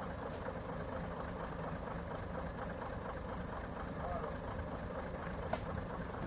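Truck diesel engine running steadily at low revs, a continuous low rumble with a faint steady hum. One short click about five and a half seconds in.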